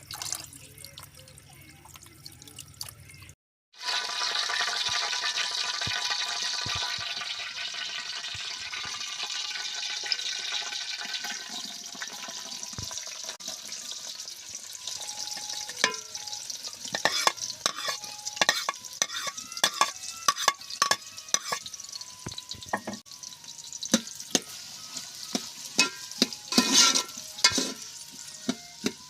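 Food frying in hot oil in a pot, sizzling loudly after a cut about three and a half seconds in. From about halfway a spoon stirs and scrapes against the pot in quick irregular strokes.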